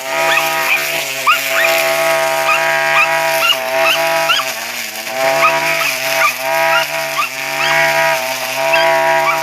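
Homemade lawnmower's blender motor and spinning blade running at high speed with a steady whine, the pitch sagging briefly several times as it takes load cutting grass.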